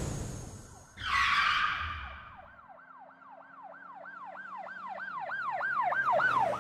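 A siren wailing in quick falling sweeps, about two to three a second, growing louder over several seconds. About a second in there is a short burst of hiss that fades out.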